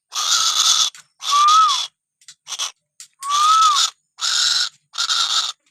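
A tuwu bird giving a string of harsh, hissing calls, about one a second. A short whistled note rises and then falls inside several of the calls.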